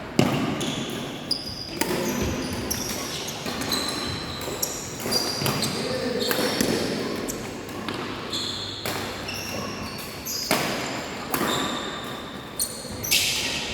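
Badminton rally: rackets striking a shuttlecock, a sharp hit every second or so, with players' voices in the background.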